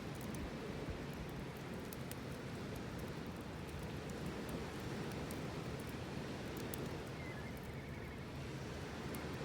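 Steady low rushing outdoor ambience, with faint scattered clicks and crackles throughout.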